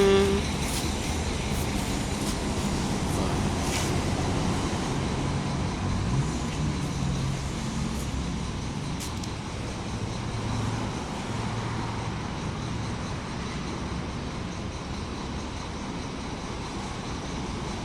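A large engine running steadily, its low pitch drifting up and down a little, with a few faint clicks.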